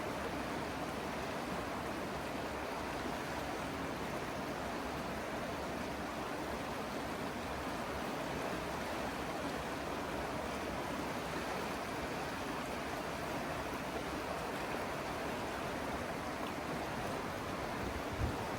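River water rushing steadily over a rocky bed, an even, unbroken noise. A brief low thump comes just before the end.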